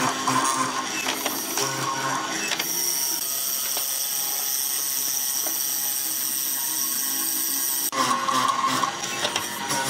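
Workshop clatter of clicks and knocks, then a power tool running steadily with a high-pitched whine for about five seconds. It stops suddenly, and the clatter comes back.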